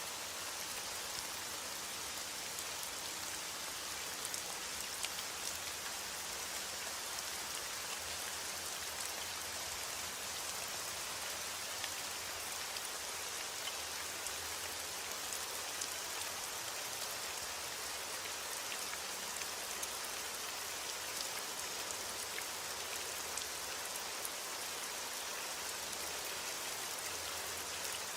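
Steady heavy rain, a dense even hiss of drops falling on a surface, with faint individual drop ticks scattered through it.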